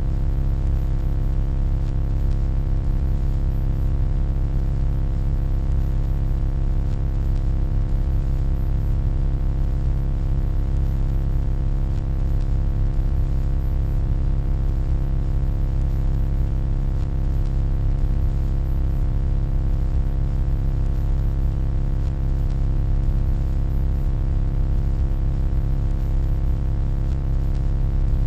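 Steady electronic hum: a deep low drone with a stack of fainter steady overtones above it and a light hiss on top, unchanging throughout.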